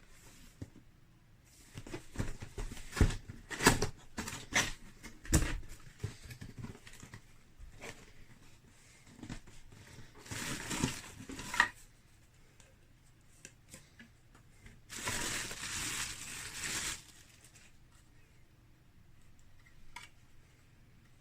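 Handling noises: a quick run of clicks and knocks, then two separate bursts of rustling, each lasting a second or two.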